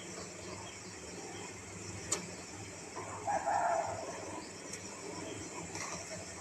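A bird gives a short, loud call about three and a half seconds in, over a steady low hum. There is a sharp click about two seconds in.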